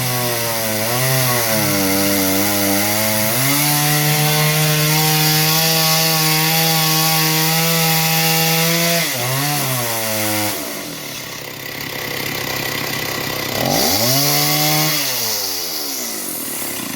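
Engine-driven saw cutting through a hardwood log with a steady cutting hiss. The engine's pitch sags as the blade bites and recovers, then the engine drops away about ten seconds in. It revs up and falls off once more near the end.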